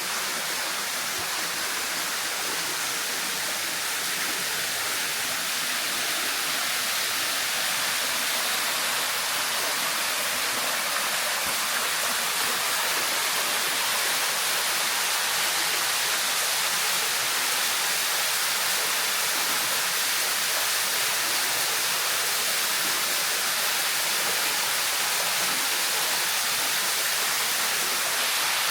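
Small desert waterfall, flowing after overnight rain, splashing steadily in a constant hiss of falling water.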